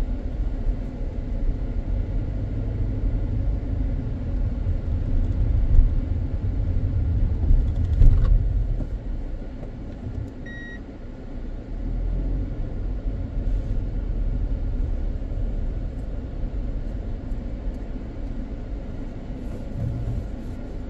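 Car driving, a steady low rumble of engine and tyres that eases off about nine seconds in. A single short electronic beep sounds about ten and a half seconds in.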